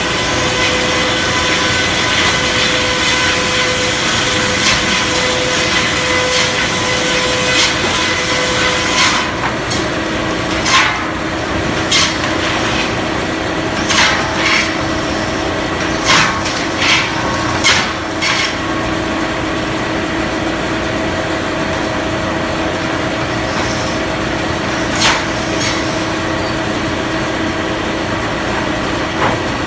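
Circular sawmill running: the blade cuts through wood for about the first nine seconds, then spins on with a steady hum. Sharp wooden knocks come every second or two over the next several seconds, and once more near the end.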